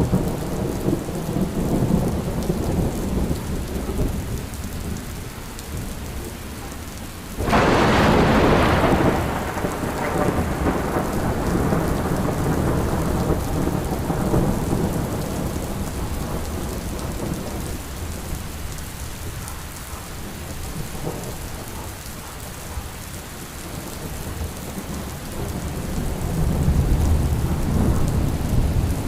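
Steady rain with thunder: a low rumble at the start, a sudden sharp thunderclap about seven seconds in that dies away over several seconds, and another low rumble building near the end.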